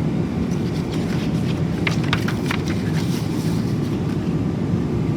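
Steady low drone of a Boeing 777-300ER's cabin in flight, engine and airflow noise, with a few light clicks or clatters about two seconds in.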